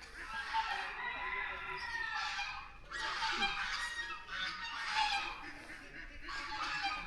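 Aviary fowl calling over and over, in bursts about a second long with short gaps between them.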